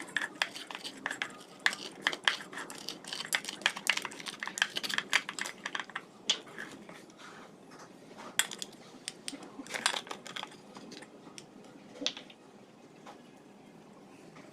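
Utensils clicking and scraping against cookware in quick, irregular strokes, thinning out to a few separate knocks in the second half.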